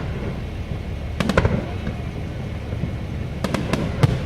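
Fireworks bursting: three quick sharp pops about a second in and four more near the end, over a steady low background rumble.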